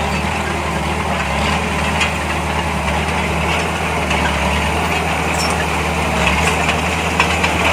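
Heavy diesel engine of earthmoving machinery running at a steady low pitch, with a couple of short knocks near the end.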